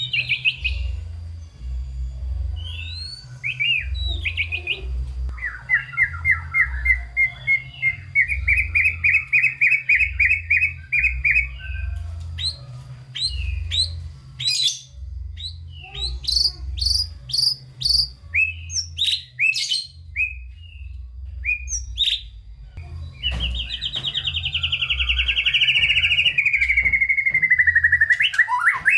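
White-rumped shama singing vigorously: a varied, non-stop run of whistles, chirps and buzzy trills, full of imitated phrases. Near the end comes a long, fast trill that slides steadily downward in pitch.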